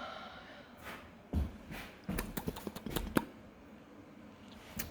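A run of light, irregular clicks and taps, clustered between about one and three seconds in.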